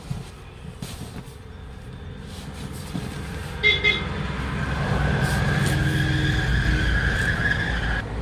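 A motor vehicle's engine growing steadily louder as it comes near, with a brief horn toot about three and a half seconds in.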